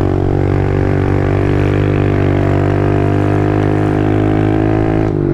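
Kawasaki KLX110 pit bike's small single-cylinder four-stroke engine running at a steady, even pitch while riding, with the revs dropping just before the end as the bike slows.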